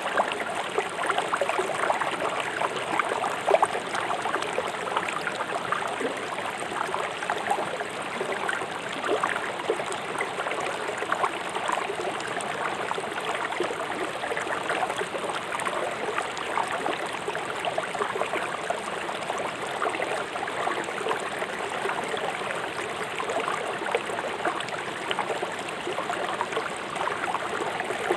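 River water rushing swiftly over and around stones, a steady babbling with many small splashes.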